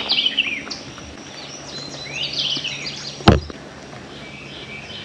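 A songbird singing two quick bursts of rising and falling chirps, the second about two seconds after the first. A single sharp click sounds about three seconds in, the loudest moment.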